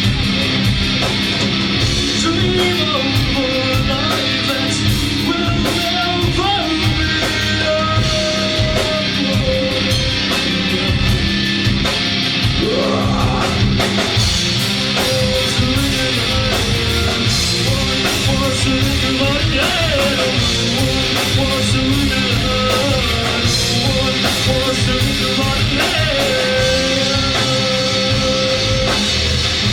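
Live rock band playing loud: distorted electric guitars and bass over a driving drum kit, with a melody line gliding above the chords.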